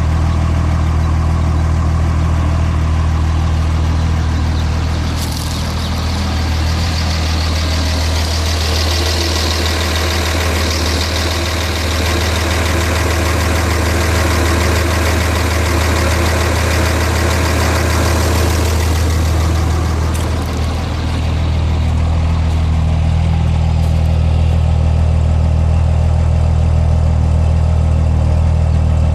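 A 6.7-litre truck engine idling, a steady low running note, which the owner calls a rough idle. For about fifteen seconds in the middle a hiss rises over it and the low note weakens.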